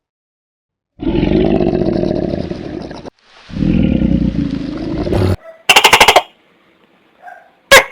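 A large animal roaring twice, each low, rough roar lasting about two seconds with a short gap between. A brief rapid rattling call follows about six seconds in, and another sharp falling call begins at the very end.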